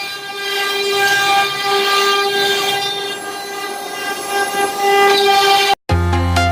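CNC router spindle running and cutting, a steady high-pitched whine with a rasping hiss over it. It cuts off abruptly near the end and electronic dance music begins.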